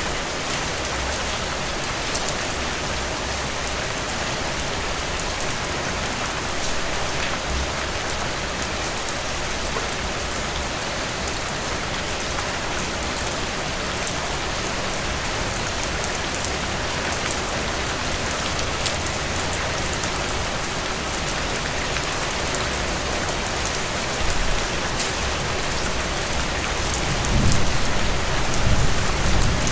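Steady rainfall, an even hiss of drops pattering on surfaces. A low rumble swells in near the end.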